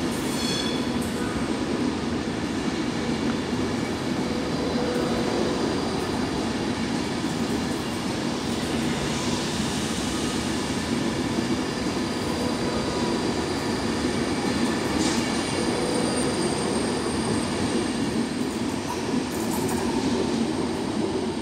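Class 390 Pendolino electric train running past along the platform: a steady rumble of the coaches and wheels on the rails, with faint high squeals coming and going.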